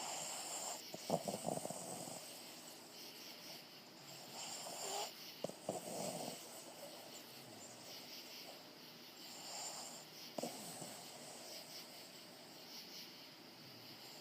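Boston Terrier snoring in its sleep: three rattling snores, about four to five seconds apart.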